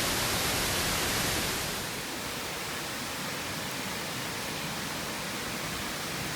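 Steady rushing of a stream, a little louder and brighter for the first two seconds, then lower and even.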